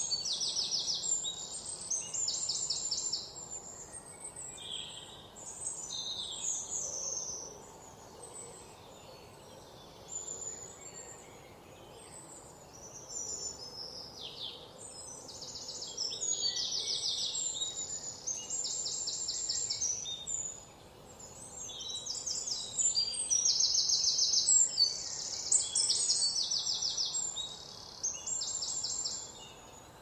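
Forest birds calling: repeated bursts of rapid, high-pitched trills, often overlapping and busiest in the second half, over a faint steady background hiss.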